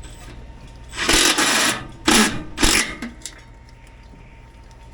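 Cordless power drill/driver run in three short bursts: one of about a second, then two quick ones.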